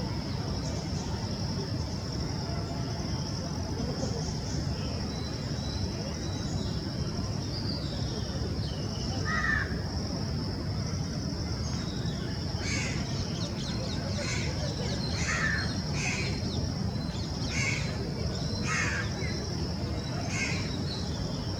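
Crows cawing repeatedly, short calls about once a second through the second half, over a steady low rumble and a constant high-pitched whine.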